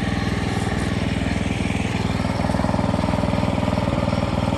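Portable sawmill's small engine running steadily, with a fast, even chugging.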